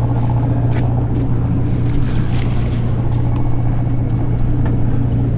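A fishing boat's engine running with a steady low drone, over water and wind noise, with a few faint knocks.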